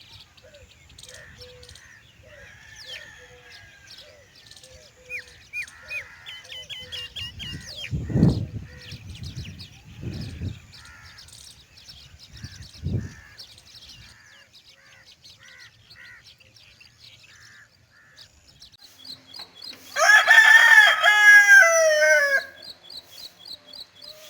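Small birds chirping and calling repeatedly in the morning, with a few dull low rumbles in the middle. About twenty seconds in, a rooster crows once, loud and drawn out, its pitch dropping at the end.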